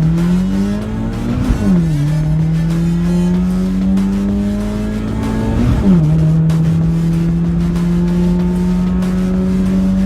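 Car engine accelerating hard down a drag strip, its pitch climbing, then dropping sharply twice as it shifts up a gear, about a second and a half in and again about six seconds in.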